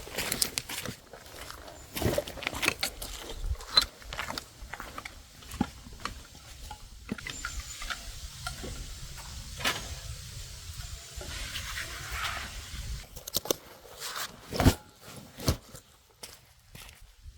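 Irregular clicks, knocks and light rustling, as of objects being handled, with a sharper knock about fifteen seconds in.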